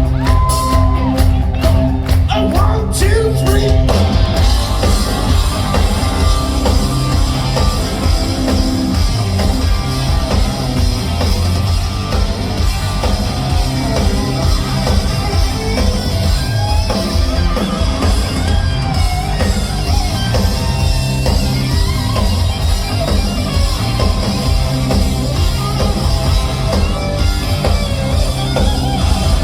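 Live rock band playing loud and steady, with electric guitar, bass and drums.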